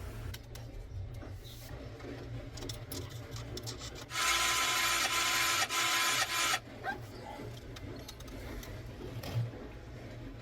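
A workshop tool or machine runs with a loud hissing whine for about two and a half seconds, starting about four seconds in, over a low steady hum and scattered light clicks.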